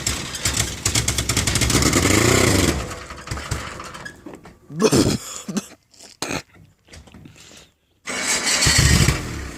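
A carbureted 1985 Nissan truck engine on a cold start, cranking and briefly catching before fading out about three seconds in; after a pause it is cranked again and runs near the end.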